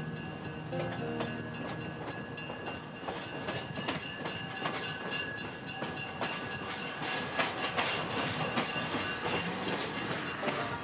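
Malahat Dayliner rail diesel car running along the track: a steady rumble of wheels on rail with irregular clickety-clack clicks over the rail joints, the clicks growing louder in the second half.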